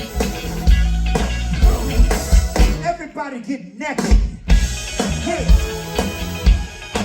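Live funk band playing with a steady beat of bass, drums and guitar; about three seconds in, the bass and drums drop out for about a second and a half before the groove comes back.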